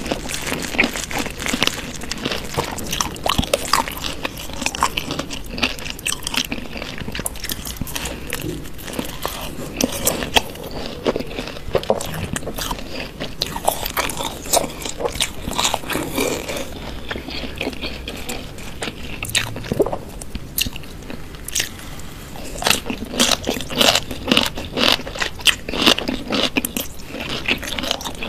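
Crunching and chewing of raw vegetables, a dense run of crisp bites that goes on throughout, with a few louder crunches near the end.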